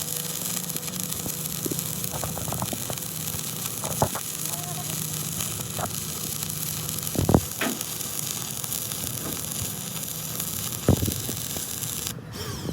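Electric arc welding: a steady sizzling crackle with a faint hum, broken by a few sharp knocks. The sizzle cuts out briefly near the end.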